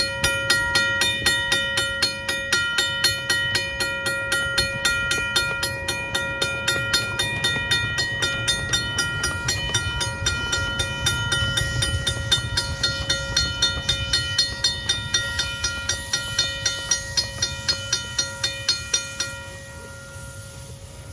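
A railroad bell ringing rapidly and evenly, about three to four strikes a second, over a low rumble. The ringing stops about two seconds before the end.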